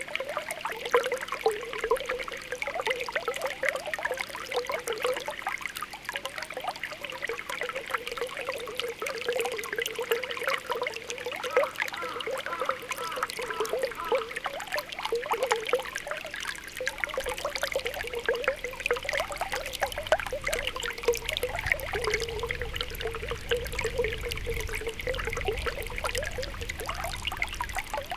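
Spring water welling up from the ground, a continuous run of small bubbling pops over a steady trickle.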